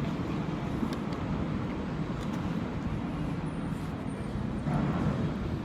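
Steady low rumble of motor-vehicle or traffic noise.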